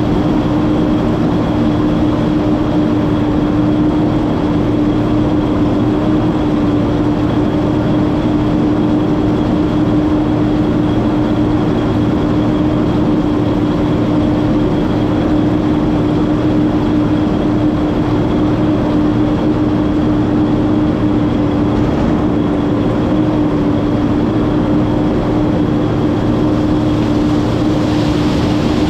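Massey Ferguson 9690 combine harvester running steadily while shelling corn: a constant mechanical drone with a steady hum that does not change.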